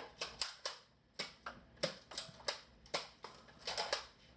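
An irregular series of about a dozen sharp clicks and taps, each short and crisp, some close together and some spaced out.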